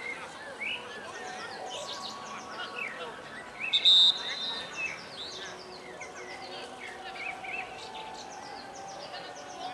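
Small birds chirping and singing throughout, in many short, quick, falling chirps. About four seconds in comes one brief, loud, high-pitched whistle-like tone.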